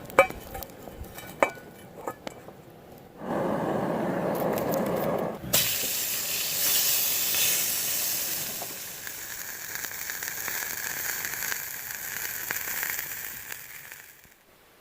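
A few light metal clinks and a couple of seconds of louder noise, then a hamburger patty sizzling in a titanium frying pan over campfire coals. The sizzle starts suddenly about five seconds in, runs as a steady hiss and fades out near the end.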